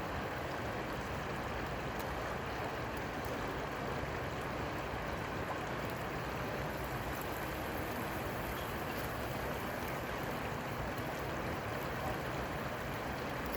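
Steady rushing of flowing water, an even wash of noise with a few faint light ticks.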